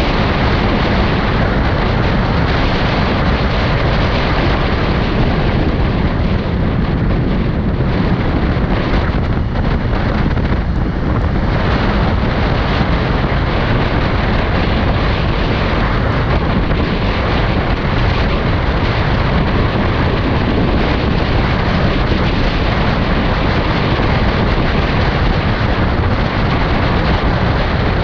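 Steady wind rush over the microphone while riding a Kawasaki Ninja 400, with its parallel-twin engine and the tyres on wet road running underneath. The mid and upper noise thins a little about seven to eleven seconds in.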